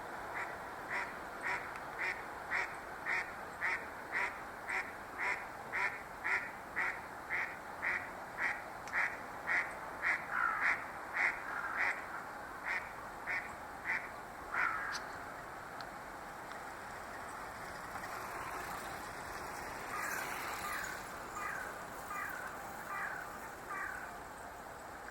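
Grey-headed lapwing calling: sharp, repeated notes at about two a second, kept up for some fourteen seconds, then a shorter, fainter run after a pause.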